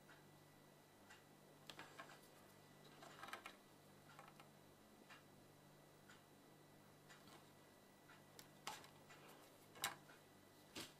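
Near silence with a low steady hum and faint, irregularly spaced clicks and taps, the loudest about ten seconds in.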